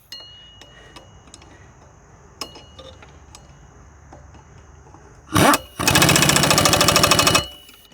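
Impact wrench running a nut down: a short burst about five seconds in, then about a second and a half of rapid, even hammering as the nut goes tight.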